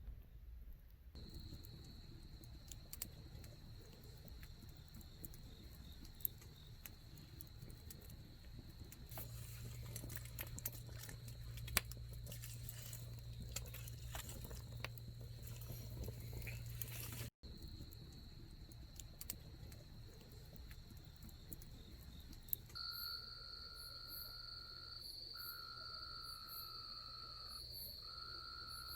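Crickets singing in a steady high trill, joined about two-thirds of the way in by a second, lower insect trill in short stretches with gaps. Scattered small crackles from a wood campfire sound throughout.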